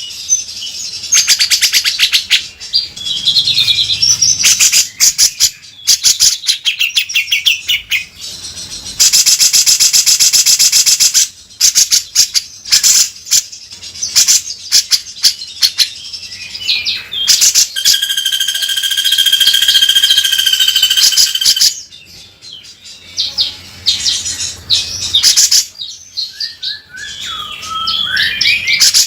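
Cucak jenggot (grey-cheeked bulbul) singing non-stop in full loud song, mixing rapid harsh rattling phrases with whistled notes. A long buzzy rattle comes about a third of the way in, a few held whistles follow a little past the middle, and quick sliding notes come near the end.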